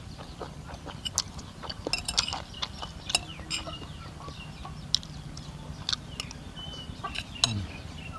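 Chickens clucking and chirping intermittently, among scattered sharp clicks and taps, over a steady low hum.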